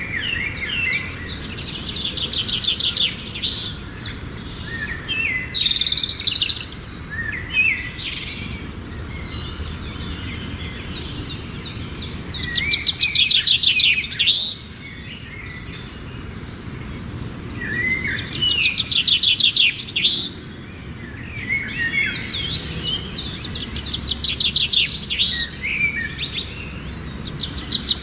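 Small birds chirping and singing in rapid trills, in repeated bursts with a few louder stretches, over a steady low background hum.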